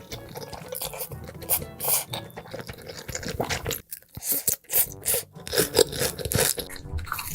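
Close-miked eating of Korean instant noodles: chewing and mouth noises in a dense string of short, sharp wet clicks and smacks, with a brief lull about four seconds in.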